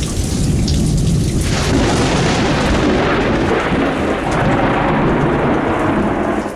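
Heavy rain pouring down, with a long rolling rumble of thunder that swells about a second and a half in and fades near the end.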